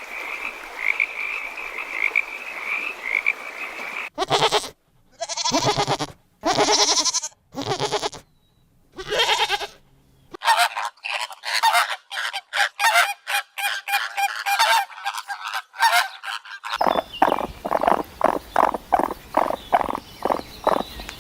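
A run of different animal calls cut one after another. A steady trilling call for the first four seconds, then about five loud drawn-out pitched calls with short gaps, then a rapid high chattering, and from about seventeen seconds in a fast even series of short calls.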